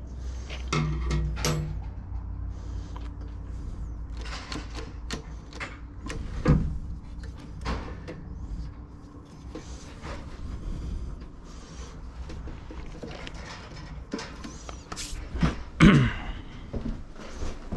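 Hand work on a lawnmower: scattered clicks, knocks and clatters of tools and metal parts over a low hum, with the loudest clatters near the end.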